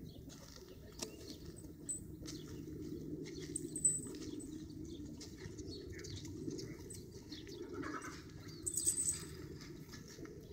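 Outdoor ambience: birds chirping in a few short high notes over a steady low rumble.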